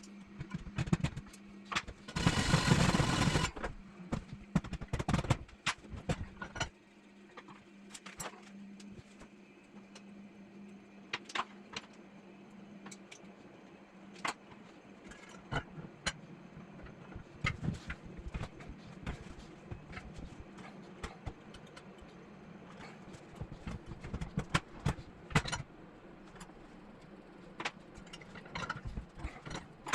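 Metal parts clinking and tapping in short irregular knocks, with a brief loud noisy burst about two to three and a half seconds in, over a low steady hum.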